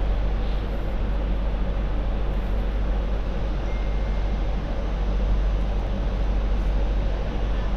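MTR Light Rail Phase IV tram running along the track: a steady rumble and rolling noise, with a faint short high tone about four seconds in.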